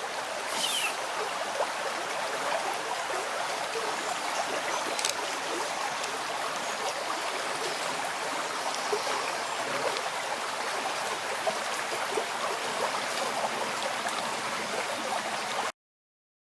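A small river flowing, a steady rush of water that cuts off abruptly near the end.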